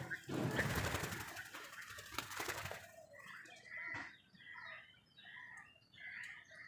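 Birds' wings flapping in a rapid flutter for about two and a half seconds as they scuffle over food, followed by a string of short bird calls.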